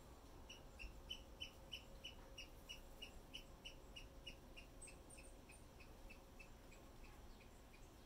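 A small songbird calling a long, even series of short high notes, nearly four a second, fading gradually toward the end.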